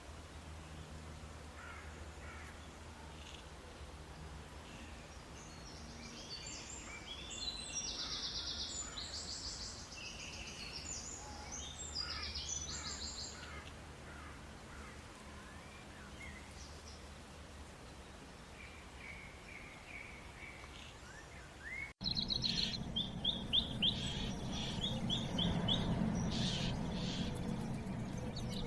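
Birds chirping and calling over a low steady background hum, with scattered high calls in the first half. After an abrupt cut about 22 seconds in, a louder run of quick, high, repeated chirps.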